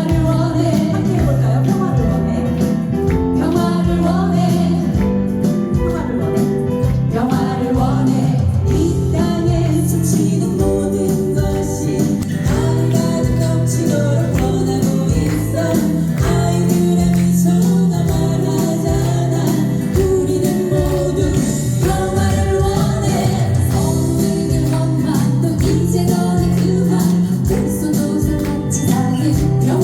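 Live pop song with a steady beat from the band or backing track and voices singing over it.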